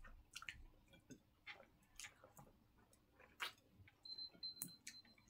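Near silence with faint, scattered mouth clicks and smacks of hand-eating and chewing pounded yam. About four seconds in, a faint high beeping of three short beeps starts: a timer going off as the eating round runs out.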